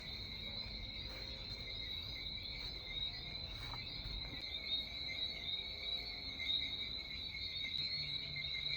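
Steady, unbroken chorus of insects buzzing in two high pitches, which the walker takes for cicadas.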